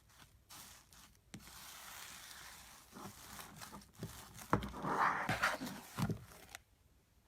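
Slime being handled by hand: a soft crackling rustle, then several sharp pops and squelches, loudest about five seconds in, as the slime is pressed and air pockets burst.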